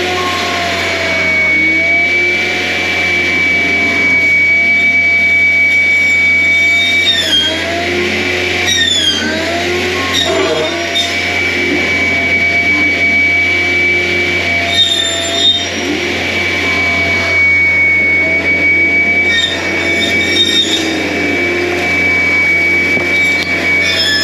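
John Deere 333G compact track loader running hard with its hydraulics working, a steady high whine over the engine. The pitch sags and recovers several times as the load comes on and off.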